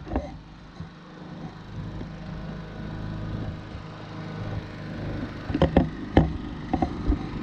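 Champion 3400-watt dual fuel inverter generator running steadily in economy mode with no load, growing louder, with several sharp knocks about five and a half to seven seconds in.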